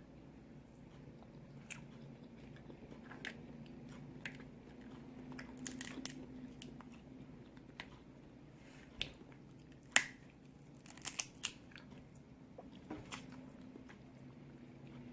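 Snow crab legs being cracked open and eaten: scattered sharp cracks and clicks of shell, the loudest about ten seconds in and a quick few just after, with chewing between.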